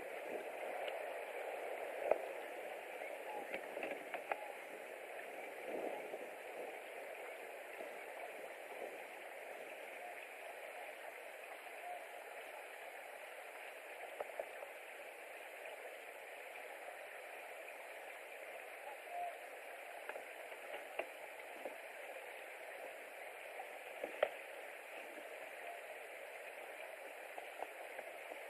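Steady hissing outdoor noise picked up by the eagle nest camera's microphone, with scattered light ticks and crackles, a pattern like rain or dripping.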